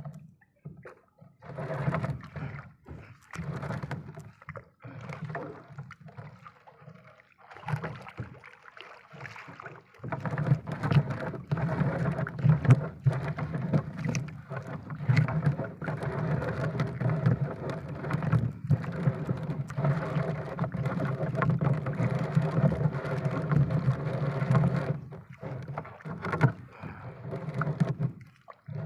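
A small boat's engine running, breaking in and out during the first ten seconds and then running steadily, with scattered knocks and clicks over it.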